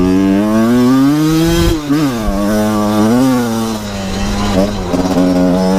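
Two-stroke Kawasaki KR dirt-bike engine, swapped into a Honda CRF250R frame, running with short throttle blips: the pitch dips and rises briefly about two and three seconds in, then wavers unevenly near the end.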